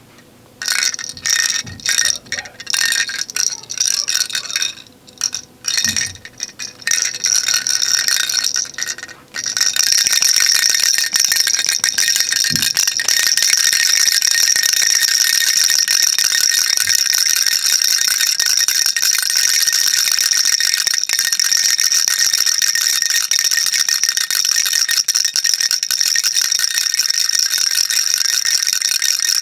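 Baby rattle shaken by hand. For the first nine seconds or so it comes in separate shakes with short pauses between them, then it turns into continuous fast shaking.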